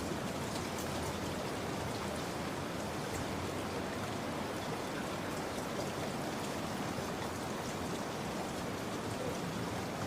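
Steady rain falling, a continuous hiss with the faint patter of individual drops.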